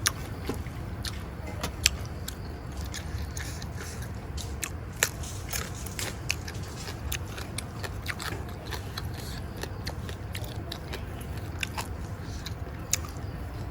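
A person chewing and biting food close to the microphone, with crunches and scattered sharp clicks. The food is raw beef and fresh vegetables.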